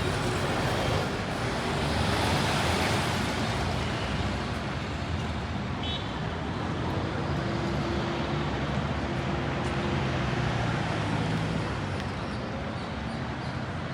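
City street traffic: cars and buses passing with steady engine and tyre noise, one vehicle passing louder a couple of seconds in, and a low engine hum running underneath.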